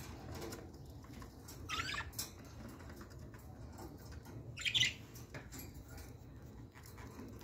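A small cage bird giving two short, high chirps, about two seconds in and again near five seconds, the second louder.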